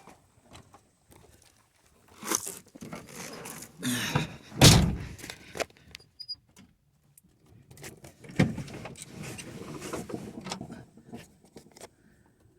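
A Geo Metro's car door being handled as someone climbs in: rustling and knocks, with one loud thump just under five seconds in and more knocks about three seconds later.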